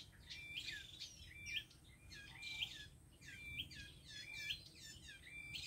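Songbirds calling: the same short whistled call repeated about twice a second, over faint background hiss.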